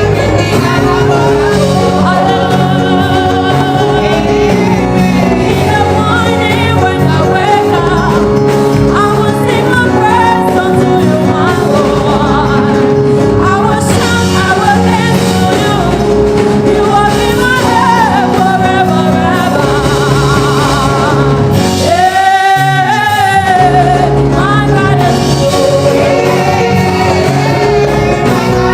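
Gospel worship music: singers over a live band with steady bass and chords. About 22 seconds in the band drops out briefly under one held, wavering sung note, then comes back in.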